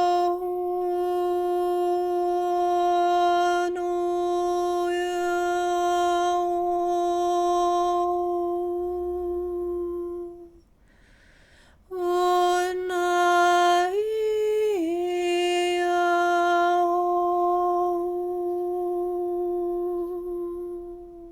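A woman humming a long, steady note, breaking off for a breath about ten seconds in, then humming again, briefly stepping up to a higher note and sliding back down to the first pitch.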